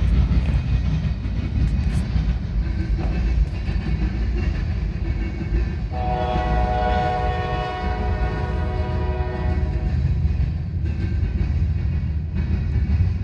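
Norfolk Southern manifest freight train passing with a steady, loud low rumble. About six seconds in, a diesel locomotive horn sounds one long blast lasting about three and a half seconds.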